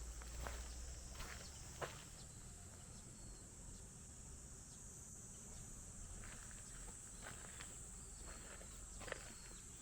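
Steady high-pitched insect chorus, with a few scattered soft clicks and rustles.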